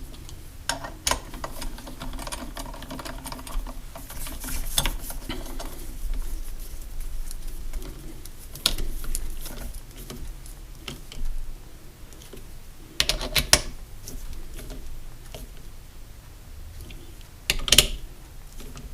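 Hand tools and metal parts of a trolling motor's lower unit clicking and tapping as it is put back together, with a cluster of louder knocks about two-thirds of the way through and another near the end.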